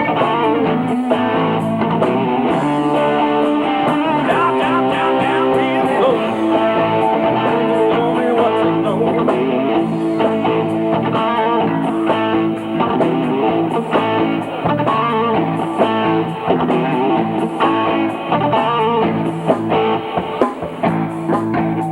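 Guitar-led rock music with strummed electric guitar chords.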